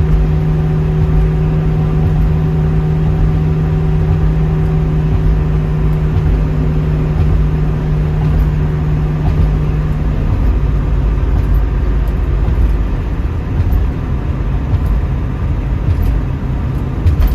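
1972 Ford Mustang Mach 1 cruising at highway speed, a steady engine drone over tyre and road rumble; the drone drops slightly in pitch about ten seconds in.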